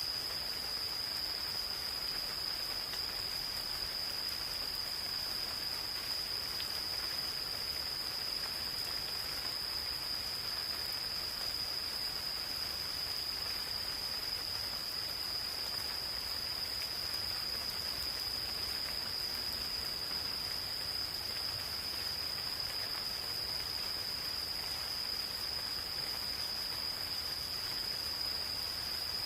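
Gentle rain falling steadily in a forest, with insects calling in an unbroken, steady high-pitched trill over it.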